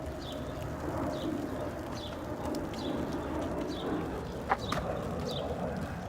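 A bird chirping over and over, short falling chirps about once or twice a second, over a steady low rushing noise. A sharp click about four and a half seconds in is the loudest sound.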